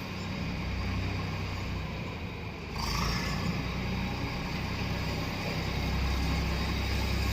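Tractor engine running steadily as it pulls a land leveler, with a little more noise from about three seconds in.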